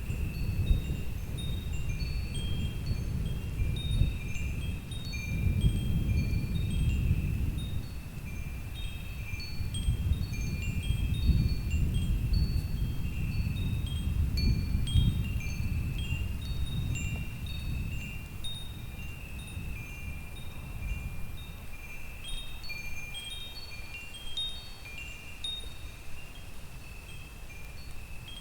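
Wind chimes ringing in scattered, irregular single notes over a low gusting wind that rises and falls, easing in the last third.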